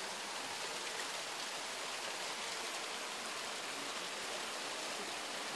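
Steady rain falling on garden foliage and lawn: an even, unbroken hiss.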